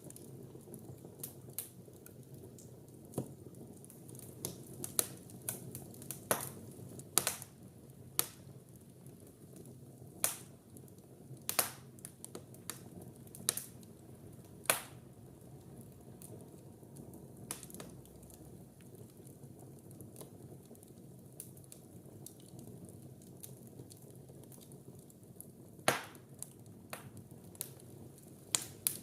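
Wood fire burning in a fireplace: a steady low rumble of flames with irregular crackles and pops, a handful of them sharp, loud snaps.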